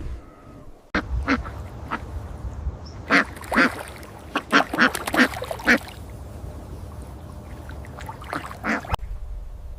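Animal calls: short, quick calls in clusters of two to four, over a steady low rumble.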